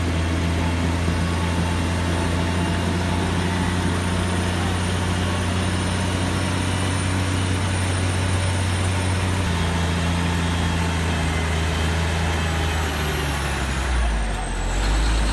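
Heavy truck's engine running hard at a steady speed, a loud low drone, winding down near the end.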